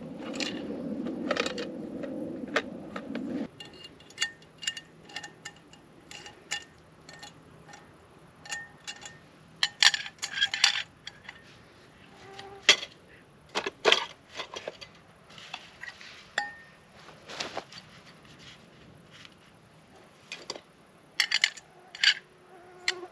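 Metal camp cookware and utensils clinking and knocking in irregular taps, many with a short ringing tone. A steady low rushing sound runs at the start and cuts off suddenly about three and a half seconds in.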